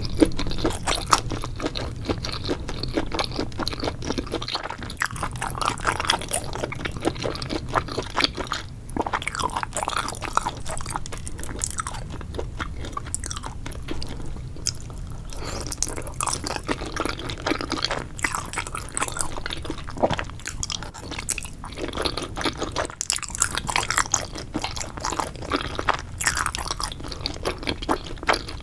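Close-miked mukbang eating sounds: steady chewing with many small wet, crunchy clicks as spicy octopus and enoki mushrooms are bitten and chewed.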